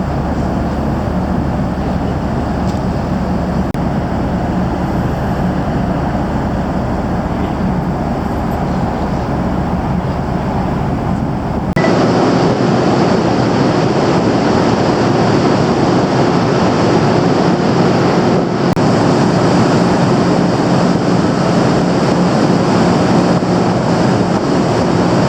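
Steady machinery rumble and hum aboard a car ferry, with an abrupt change about halfway through to a brighter, less bassy rumble.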